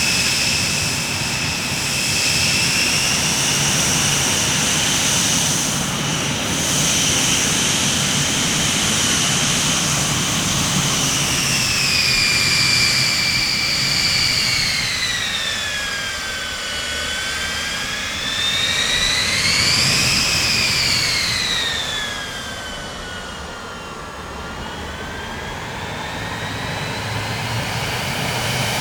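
Jet aircraft engines running over a steady rush, with a high whine that holds level, sinks, swings up briefly about twenty seconds in, then falls away again.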